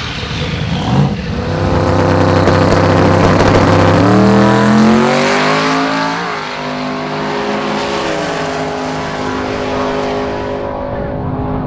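Drag-racing car engine revving: a held high note that climbs about four seconds in, then eases slowly down.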